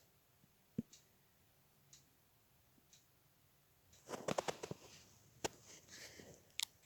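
Faint handling noises: scattered light clicks, then a quick run of clicks and rustle about four seconds in, followed by two single sharp clicks.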